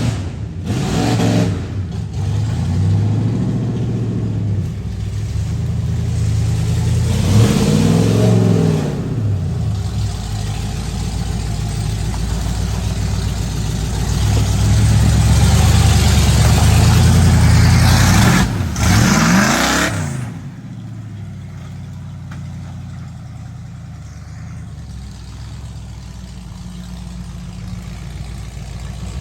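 Ford mud truck engine revving hard, its pitch rising and falling in repeated surges. About two-thirds of the way in it drops back to a quieter, steady run.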